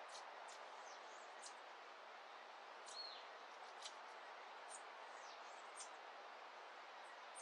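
Faint dawn birdsong: many short, high-pitched chirps and quick down-slurred notes from small birds, with one longer arched whistle about three seconds in, over a steady soft hiss of background noise.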